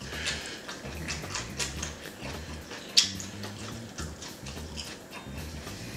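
A person chewing a mouthful of raw carrot, with many small wet mouth clicks and one sharper click about three seconds in.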